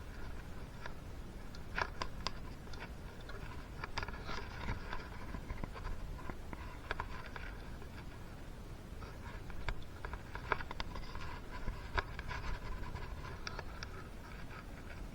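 Scattered light clicks, taps and scraping of small parts and hand tools being handled during two-stroke engine piston installation, over a steady low hum.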